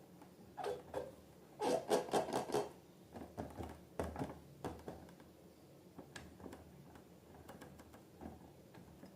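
Slime being worked by hand: irregular sticky squelches and crackling clicks, with a dense run of them about two seconds in and scattered ones after.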